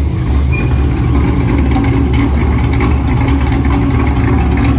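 Car engine idling with a loud, steady low rumble.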